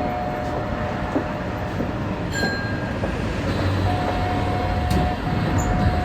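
Kita-Osaka Kyuko 9000 series train giving off a steady low hum and rumble, with a steady high tone that drops out for a while in the middle and comes back, and a couple of sharp clicks.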